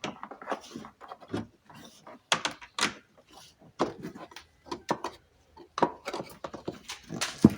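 Irregular plastic clicks, knocks and rattles from a car's front door trim panel being worked loose and handled, with a heavier thump near the end.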